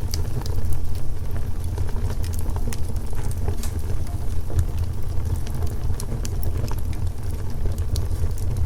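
Wood fire crackling: irregular sharp pops and snaps from the burning logs over a steady low rumble of the flames.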